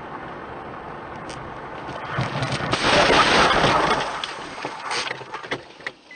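Dash-cam audio of a car on the road: steady road noise, then about two seconds in a loud rush of noise that peaks around three seconds, followed by scattered knocks and clicks, as in a collision.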